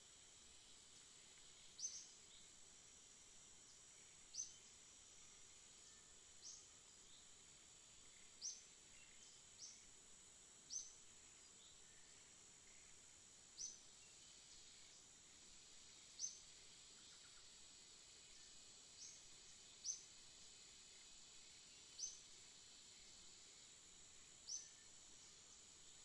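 A single songbird repeating a short, high, upward-sweeping chirp about a dozen times, one every two seconds or so, over a steady high-pitched hum.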